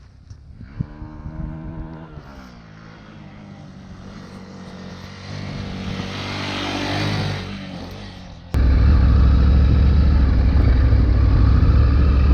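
Triumph Tiger 900 Rally Pro's three-cylinder engine running on an off-road trail, its revs rising and falling in the first couple of seconds. A rushing noise swells around six seconds, and about eight and a half seconds in the sound suddenly becomes much louder, a heavy engine rumble close to the microphone.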